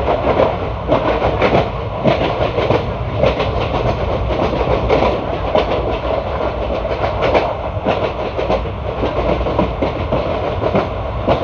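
ICF passenger coach running at speed on the track, heard on board: a steady rumble of wheels on rail with a dense, irregular clatter of clicks and clacks.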